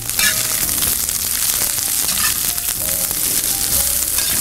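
Sliced snake gourd and onion sizzling in hot oil in a brass kadai, a steady crackle, with a metal spoon now and then scraping and clinking as it is stirred.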